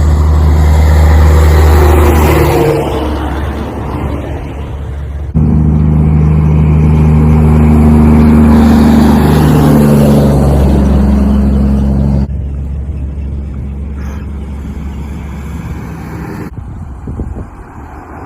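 Heavy truck engines running loud and low as trucks drive by, in a few clips joined by abrupt cuts.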